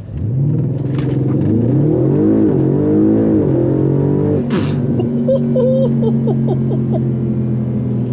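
Audi RS6 4.0 TFSI twin-turbo V8, swapped into an Audi S5, accelerating hard from a brake-boosted launch. The revs climb quickly from just after the start, there is a sudden gear change about four and a half seconds in, then the engine pulls on with a steadier note.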